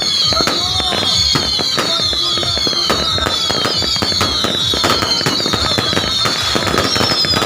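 Dense, continuous barrage of fireworks and firecrackers: rapid bangs and crackling, with high whistles that fall in pitch again and again.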